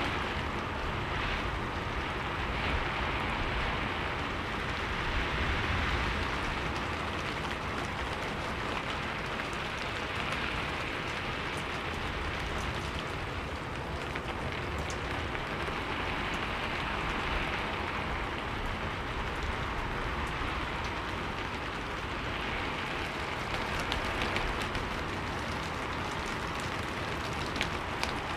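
Steady rain falling, an even hiss of rain on a surface with a few faint drop ticks.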